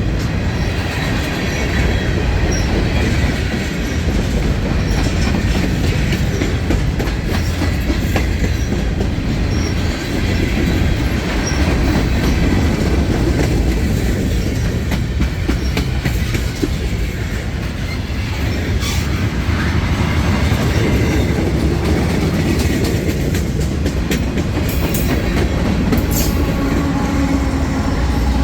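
Freight train cars rolling past, with steady heavy rumbling and clickety-clack of the wheels over rail joints. Now and then a wheel squeals briefly.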